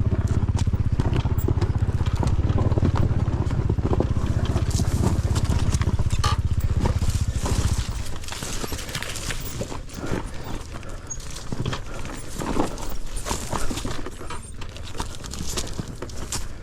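Dirt bike engine running steadily at low revs, cutting out about eight seconds in; after that, irregular knocks and scuffs on rock.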